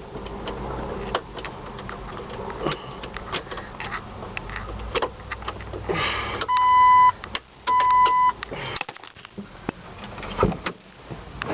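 Two short, steady electronic warning beeps from the Jeep Wrangler's chime, each about half a second long and at the same pitch, over scattered clicks and knocks of handling.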